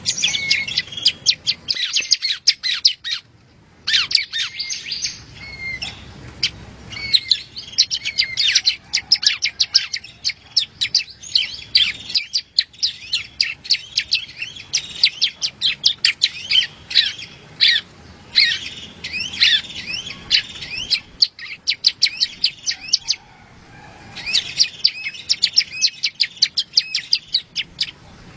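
Yellow-bellied prinia (prenjak rawa) singing: fast, dense runs of high chirps and trills, broken by short pauses about three and twenty-three seconds in.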